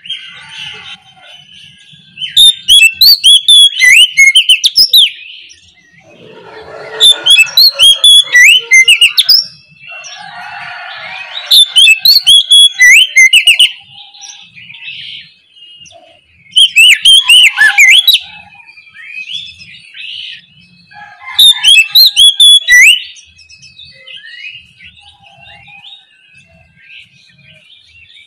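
Oriental magpie-robin singing in five loud bursts of two to three seconds each, mixing sliding whistled notes with fast harsh rattling phrases. Softer chirps and short calls fill the gaps between bursts.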